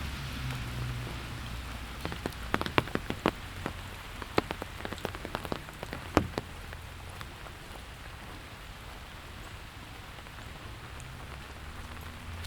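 Steady rain falling, with a flurry of sharp, irregular drip taps close by for a few seconds starting about two seconds in.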